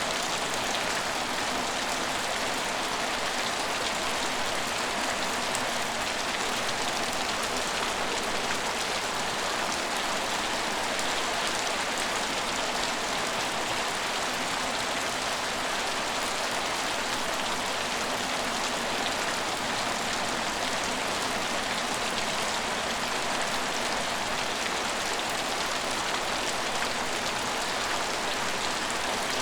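Steady rain falling on hard surfaces, an even hiss of drops with fine patter and no change in strength.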